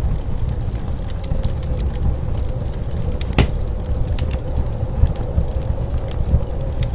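Wood fire crackling with scattered sharp pops over a steady low rumble of blizzard wind. One louder pop comes about three and a half seconds in.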